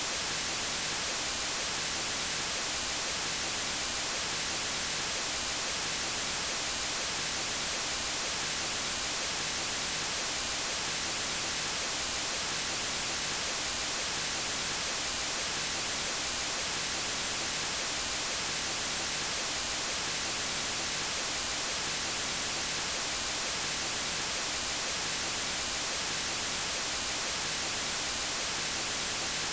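Steady electronically generated white noise: an even, unchanging hiss across all frequencies, brightest in the highs.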